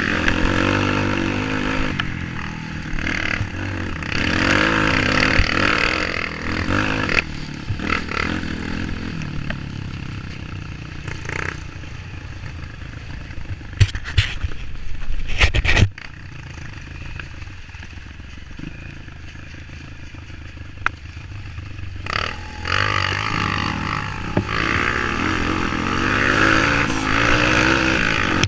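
Off-road motorcycle engine running and revving up and down on a trail ride, its pitch rising and falling. It is louder at the start and end and drops back in the middle, with a cluster of sharp knocks and clatter about halfway through.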